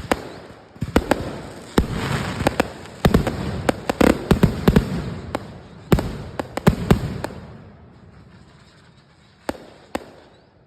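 Fireworks going off: rapid volleys of sharp bangs and crackling for about seven seconds, dying away, then two more bangs near the end.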